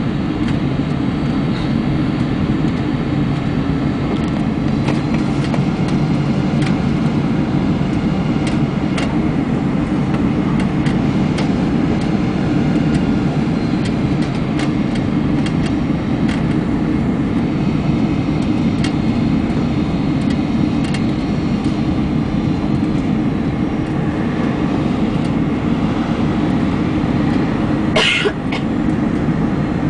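Steady loud rumble of a Boeing 747-400 cabin heard from the upper deck during landing, with faint rattles and clicks throughout and one short sharp noise near the end.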